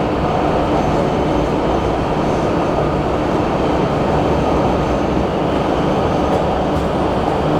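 Shenzhen Metro Line 3 train running, heard inside the carriage: a steady, even running noise from wheels and motors.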